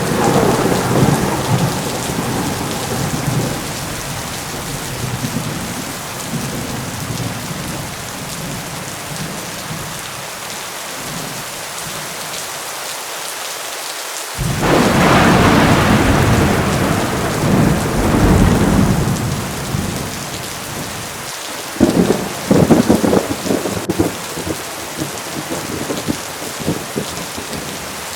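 Heavy rain falling steadily through a thunderstorm, with rolling peals of thunder: one fading over the first few seconds, a loud clap breaking suddenly about halfway through and rumbling for several seconds, and a crackling run of sharp cracks near the end.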